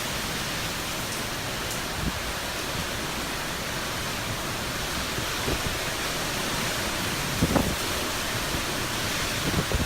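Sustained hurricane wind, a steady rushing noise. A few short low thumps of buffeting come through, the loudest about three quarters of the way in.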